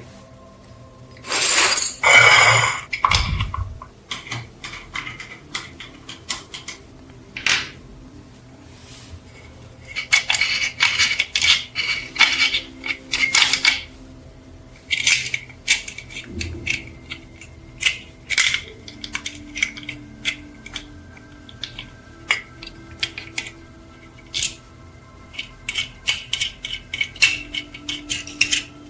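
Small metal parts clinking, knocking and scraping against one another as they are handled on a workbench, in irregular clusters with a few louder rattling spells.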